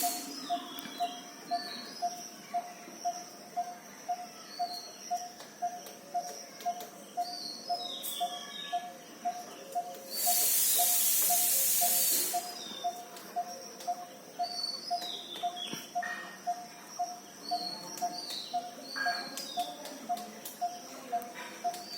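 Birds calling: one bird repeats a short low note about twice a second, steady throughout, while higher, falling chirps come every second or two over a faint steady high-pitched drone. About ten seconds in, a loud hiss covers everything for about two seconds.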